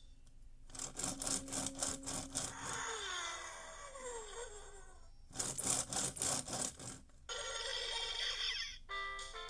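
VTech Go! Go! Smart Wheels race car toy playing electronic sound effects through its small speaker. A fast ringing bell plays, then a run of falling sliding tones, then the ringing bell again, then a steady rushing hiss. Its jingle tune starts again near the end.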